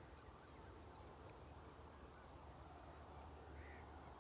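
Near silence with a faint insect chirping high and steadily, about four chirps a second, running into a longer trill near the end.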